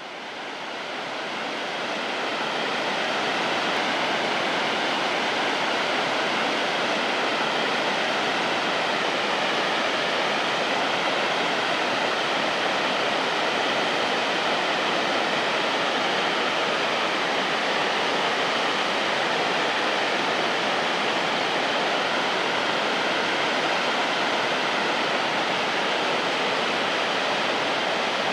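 Shirahige Falls rushing: a steady roar of falling water that fades in over the first few seconds, then holds even.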